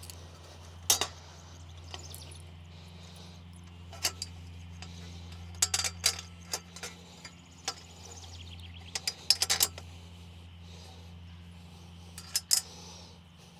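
Metal clinks and knocks of bolts, washers and steel frame pieces being handled and fitted while a non-penetrating roof mount is bolted together loosely, coming in scattered clusters of sharp clicks, with a steady low hum underneath.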